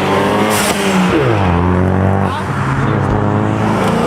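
Car engine revving and accelerating. Its pitch climbs, drops sharply about a second in, and drops again a little past two seconds.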